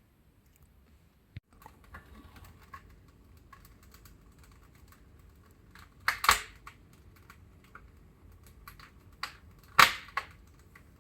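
Wood fire crackling in a fireplace: irregular small crackles and ticks, with two loud sharp pops a few seconds apart.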